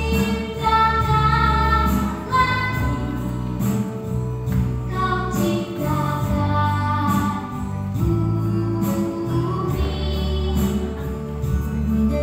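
A child singing a melody over instrumental backing, with a steady bass line and regular percussion strokes.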